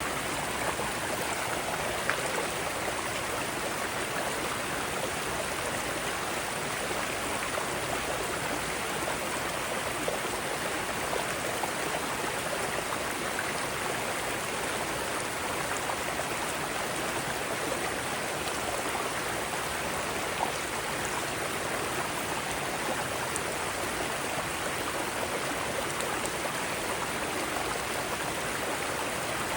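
Mountain stream flowing over rocks: a steady, even rush of water with an occasional small splash.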